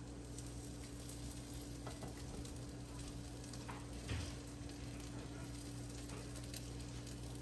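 Egg and batter sizzling steadily in a skillet under a glass lid, with faint crackles and one light knock about four seconds in.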